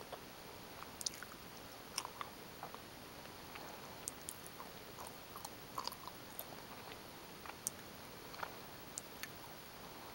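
Gummy bears being chewed close to the microphone: soft, irregular wet clicks and smacks of the mouth, a few each second, over a faint steady hiss.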